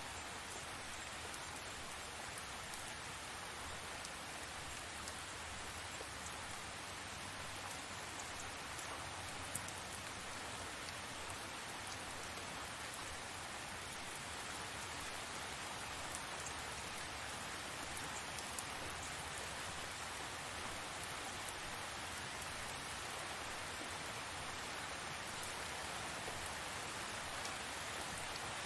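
Steady rain falling, a dense even hiss with scattered drop ticks and a few louder single drops.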